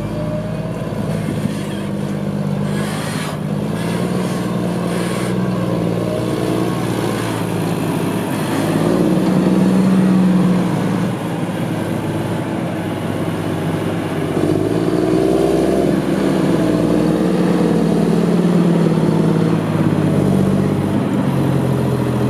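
Claas Xerion tractor's diesel engine running as the tractor drives off, its pitch shifting up and down, loudest about ten seconds in and again from about fifteen seconds on.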